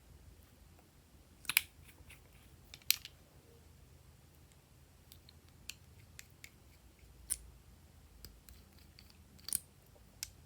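Slime being handled, giving scattered sharp clicks and pops: four louder ones about one and a half, three, seven and nine and a half seconds in, with fainter ticks between.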